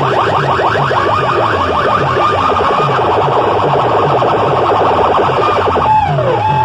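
DJ sound system playing loud electronic siren-like effects over a steady bass beat: a rapid warbling sweep that changes near the end to slower falling swoops, about two a second.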